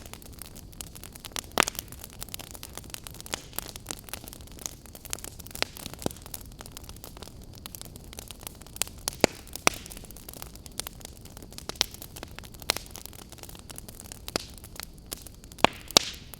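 Campfire crackling: irregular sharp pops and snaps of burning wood over a steady soft hiss, with a few louder pops.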